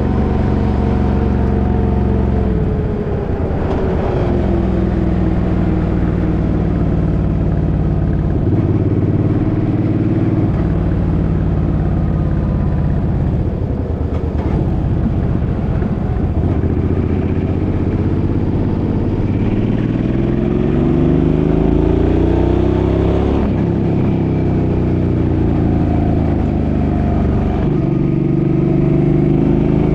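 Suzuki's engine running under way on the road. Its note falls early on as it slows, then climbs steadily under acceleration past the middle, drops abruptly at a gear change about three quarters through, and rises again near the end.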